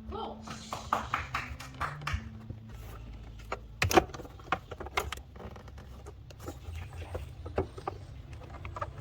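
Scattered clicks, clinks and knocks of tools and metal parts being handled during car repair work, with one louder knock about four seconds in, over a low steady hum.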